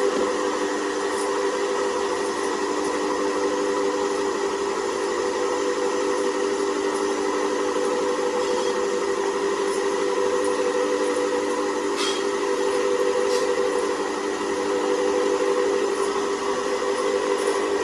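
A workshop machine running steadily, a constant whine with several held tones over a hiss.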